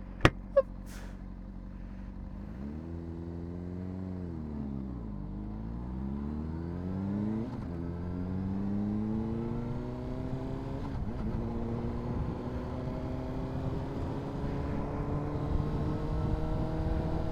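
Honda CBR600RR inline-four engine pulling away from a standstill. It idles, then revs climb and fall back at each upshift, about three times, and the note rises slowly in a higher gear.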